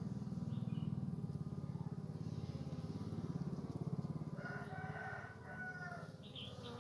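Honeybees buzzing in a steady low hum around an opened hive, with a rooster crowing once about four seconds in.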